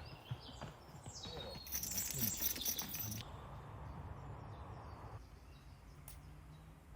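Small birds chirping outdoors, with scattered clicks and a loud crackling, rustling noise lasting about a second and a half, starting about two seconds in.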